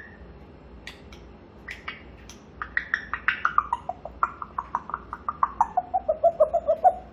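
African grey parrot vocalising: a few scattered clicks, then a fast run of short notes, about five or six a second, that steps steadily down in pitch.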